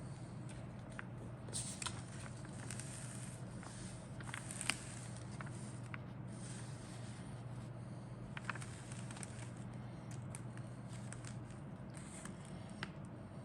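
Handling of a plastic model kit's parts: scattered light clicks and crackles from plastic bags and sprues, over a steady low hum.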